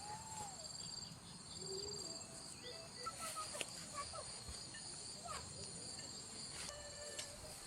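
Crickets and other night insects trilling steadily in a high, unbroken chorus, with faint short calls and a few clicks scattered through it.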